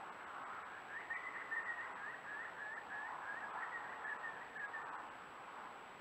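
A small bird calling, a rapid run of short high chirps from about a second in until near the end, over a steady background hiss.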